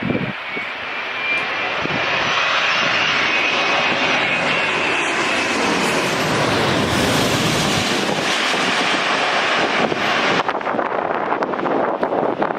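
Airliner passing low overhead, its engine noise building to a loud peak partway through, with a faint whine early on; the high hiss drops away sharply near the end as it moves off.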